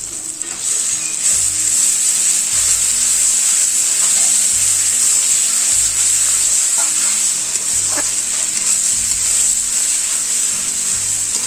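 Spice pastes, onion and tomato sizzling in hot mustard oil in a kadai as the masala is fried and stirred: a steady frying hiss that swells about half a second in. There are a few light spatula clicks, the clearest about eight seconds in.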